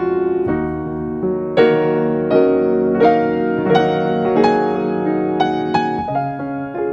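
Background music: a calm, slow solo piano (or electric piano) piece, single notes struck about every half second over held chords.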